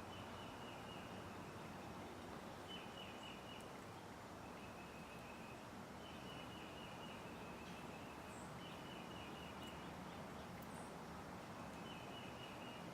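Near silence: faint room tone with a faint high chirping trill that repeats about every second or two.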